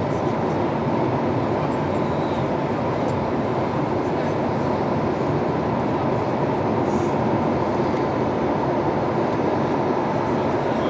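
Steady cabin noise inside an Airbus A220-300 airliner: an even rumble of engines and airflow.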